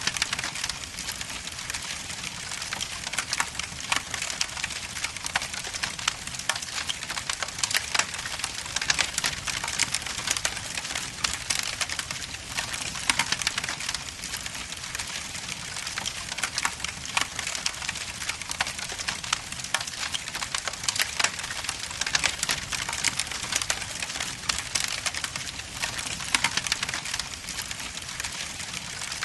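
Wood logs burning in a fireplace, crackling continuously with frequent sharp pops and snaps over a steady hiss.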